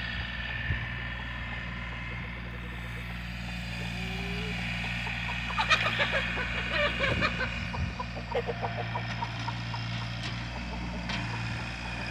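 An engine running steadily at a low pitch, with a flurry of chickens clucking and calling over it about halfway through.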